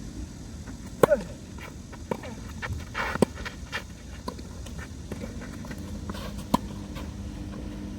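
Tennis ball struck by rackets in a singles rally: sharp hits about one, three and six and a half seconds in, with lighter footfalls and shoe scuffs between them.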